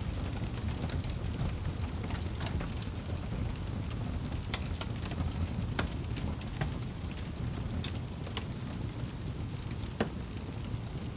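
Wood fire crackling: irregular sharp pops and snaps over a steady low rumble of burning, with one louder pop about ten seconds in.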